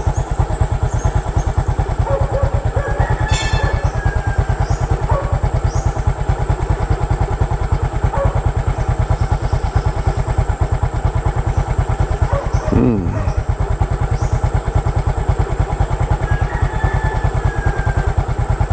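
Motorcycle engine idling steadily with an even, unchanging beat, while the rider checks a phone map. A short click comes about three seconds in.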